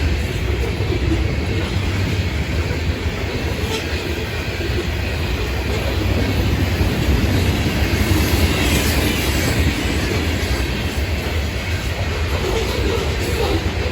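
Florida East Coast Railway freight train rolling past, a loud, steady, low rumble of wheels on the rails.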